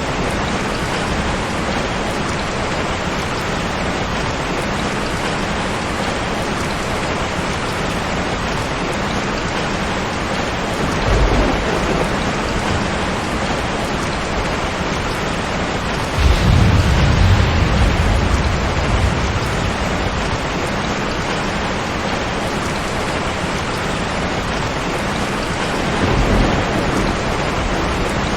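Steady heavy rain, with rolls of thunder rumbling low: a short one about 11 seconds in, the loudest and longest about 16 seconds in, and a faint one near the end.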